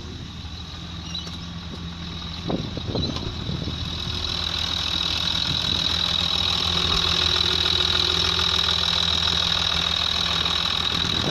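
Ford Territory's 2.7 V6 turbo diesel idling steadily, growing louder from about four seconds in.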